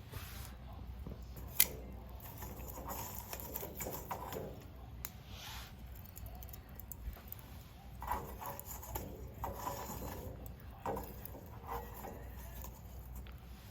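Small wood fire crackling in a homemade stainless-steel bowl fire pit, with one sharp snap about a second and a half in and scattered soft clicks and rustles after it.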